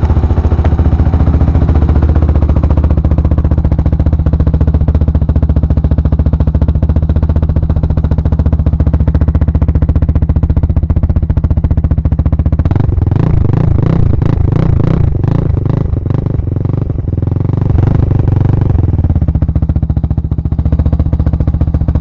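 Honda TRX450R's single-cylinder four-stroke engine running on its first start after a top-end rebuild, ticking over steadily. About halfway through it turns choppier and fuller for several seconds, then settles back to a steady idle.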